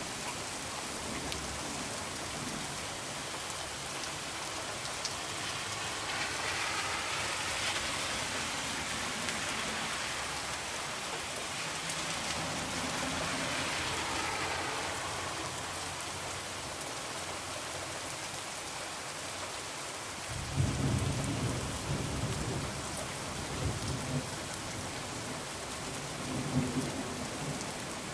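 Heavy rain falling steadily, with thunder rumbling low from about two-thirds of the way in.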